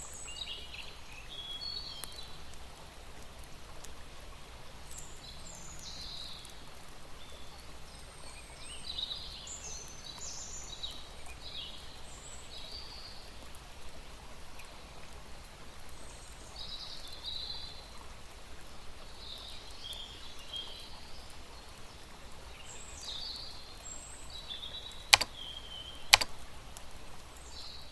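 Birds chirping in short, high calls scattered throughout, over a steady outdoor hush, with two sharp clicks about a second apart near the end.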